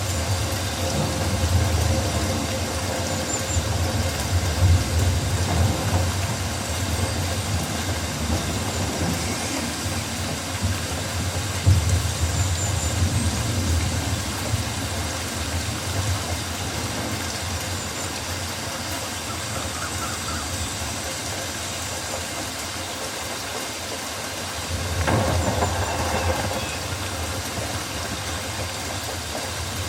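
Rainforest ambience: a steady hiss of rain over a low rumble, with a few faint high chirps. The rumble and hiss swell briefly near the end.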